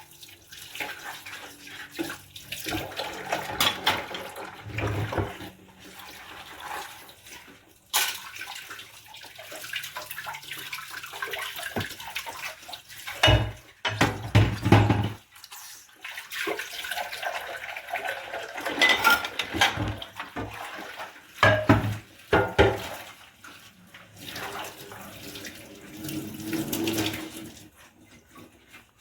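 Tap water running and splashing in a sink as dishes are washed by hand, with several louder splashing bursts midway and again later.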